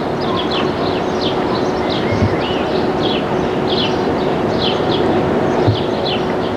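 Steady hum and rushing noise from a standing electric railcar, with small birds chirping over it about twice a second.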